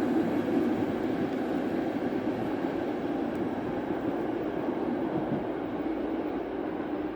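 Intercity passenger train rolling along the track: a steady rumble of wheels on rail that slowly fades.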